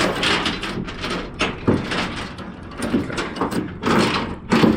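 Steel load-securement chain clanking and rattling in uneven bursts as it is pulled and worked tight, with a few louder metal knocks.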